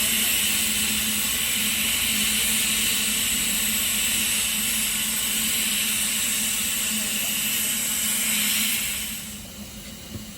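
Steam locomotive venting steam in a loud, steady hiss that stops about nine seconds in.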